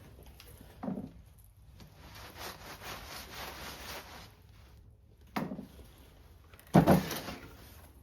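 A rag rubbing and wiping for about two seconds, between a few handling knocks of parts set down on a workbench, the loudest knock near the end.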